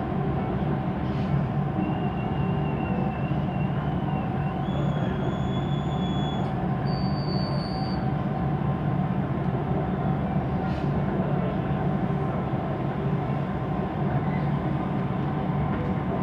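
Siemens Inspiro metro train running, heard from inside the car: a steady rumble of wheels and running gear, with faint thin high whines that step up in pitch between about two and eight seconds in.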